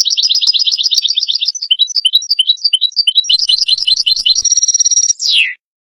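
European goldfinch singing: a fast run of twittering notes, then a string of varied chirps, a short held whistle and a falling note, cutting off abruptly about five and a half seconds in.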